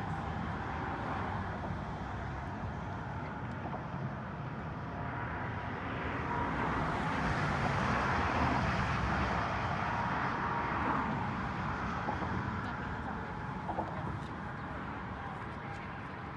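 Steady road-vehicle noise that swells for a few seconds around the middle and then eases off, with faint voices underneath.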